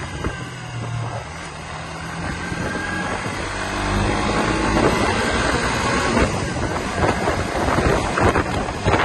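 Suzuki GSX-R150's single-cylinder four-stroke engine running on the move, under heavy wind noise on the microphone. The engine's steady note stands out in the first couple of seconds and again from about four seconds in.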